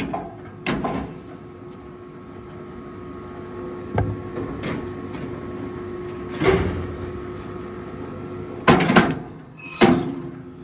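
Rail log splitter running with a steady hum, broken by several sharp knocks and cracks of wood. The loudest cluster of knocks comes near the end.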